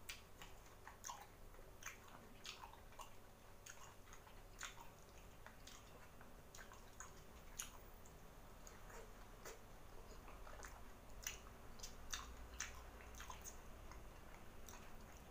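Faint chewing and biting of fresh pineapple chunks: soft, wet mouth clicks and smacks at an irregular pace.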